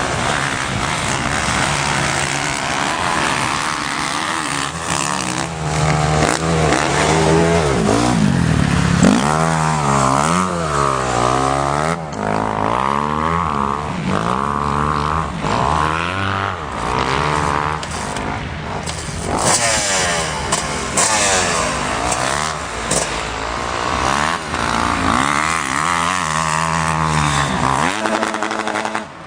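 Motocross bikes riding a dirt track, their engines revving up and down again and again as they accelerate, shift and back off, with more than one bike heard at once at times.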